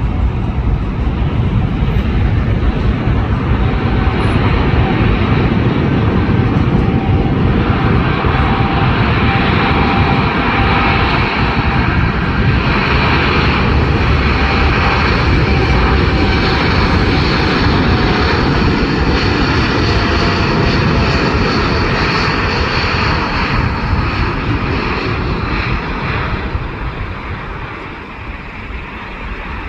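Boeing 787's twin GE GEnx turbofan engines at takeoff power, a loud jet noise with a faint whine, loudest in the middle and fading away over the last few seconds as the airliner departs.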